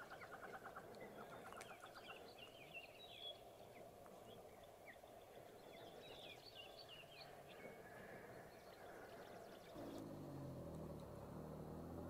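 Faint bird calls: a quick run of ticks in the first few seconds and scattered short high chirps over a steady faint hum. A low hum comes in near the end.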